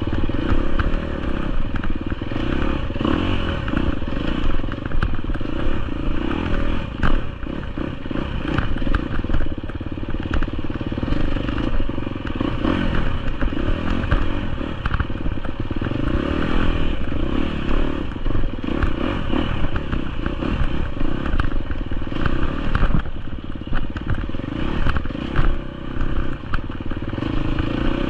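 GasGas EX250F 250cc four-stroke enduro dirt bike engine running under load on a trail ride, its revs rising and falling. Frequent knocks and clatter come from the bike working over rough ground.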